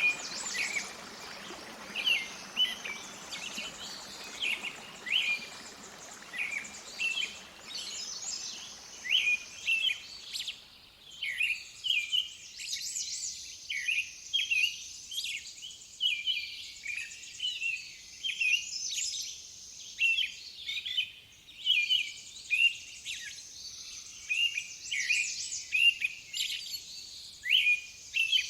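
Songbirds chirping and singing in short phrases, about one or two a second, over a faint background hiss that fades out about a third of the way through.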